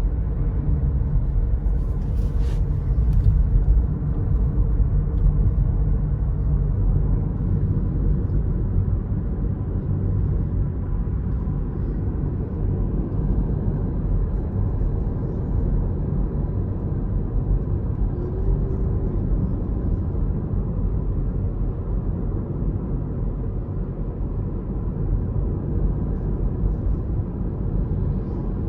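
Car driving, with a steady low rumble of road and engine noise and a short clatter about two seconds in.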